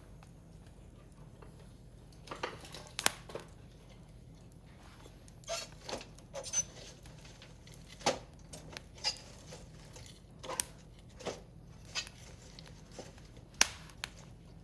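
Firewood burning in a Picogrill fire pit, crackling with irregular sharp pops, about a dozen of them spread unevenly.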